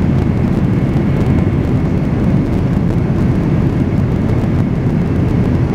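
Steady low rumble of a Boeing 767-300's jet engines and airflow heard inside the passenger cabin, with a faint high tone above it.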